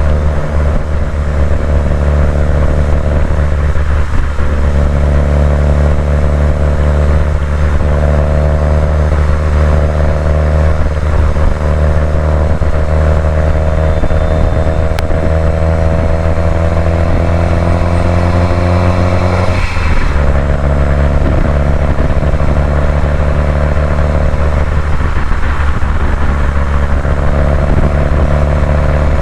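2018 Subaru WRX STI's 2.5-litre turbocharged flat-four engine under way, its pitch rising slowly for several seconds, then dropping sharply at a gear change about two-thirds of the way through before running steady again.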